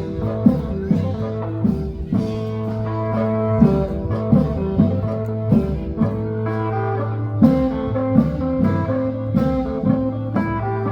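Thai festive band music: a plucked-string lead played over a steady drum beat.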